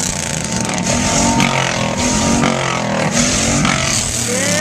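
V8 car engine revving, its pitch rising and falling several times, with a few sharp cracks from the exhaust.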